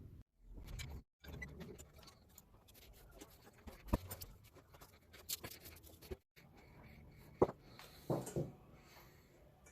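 Scattered light clicks and small knocks of objects being handled on a workbench, with a sharper knock about four seconds in and again about seven and a half seconds in, followed by a short cluster of softer knocks. Brief dead-silent gaps break the sound where the footage is cut.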